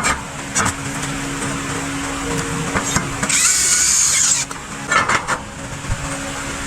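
Power-tool work: a steady motor hum with a few sharp knocks, and a loud high-pitched whine lasting about a second near the middle.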